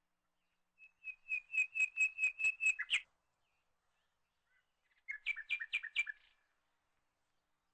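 A small bird singing two runs of rapid repeated high chirps, about four or five a second: a run of about two seconds, then after a pause a shorter run of about a second.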